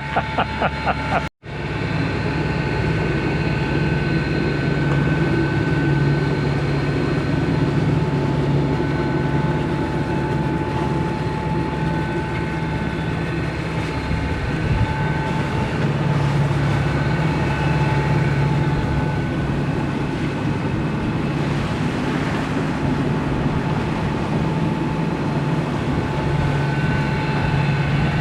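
Inboard diesel engine of an Island Packet 485 sailboat motoring with its sails furled, a steady low drone with a hum running through it. The sound cuts out for a moment about a second in, then runs on unchanged.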